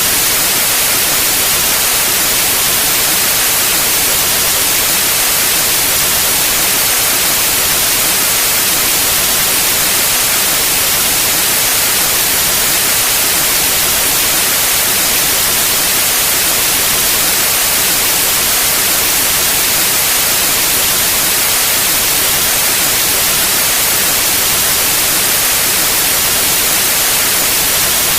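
Steady white noise: an even, hissing static with no change in level or pitch, brightest in the highs.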